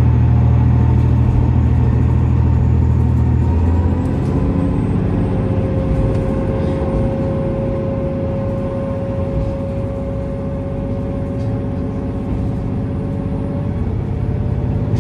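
Kiha 47 diesel railcar running, heard from inside the car: a heavy low engine drone drops away about four seconds in, leaving rumbling running noise and a steady whine that rises slightly in pitch.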